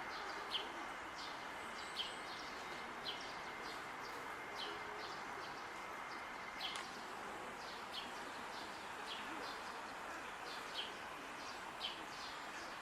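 Great spotted woodpecker giving short, sharp 'kik' calls every second or so, over a steady background hum of the park.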